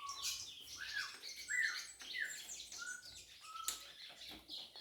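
Birds chirping: a string of short repeated notes, a little over one a second, each a quick curved whistle, the series stepping down in pitch.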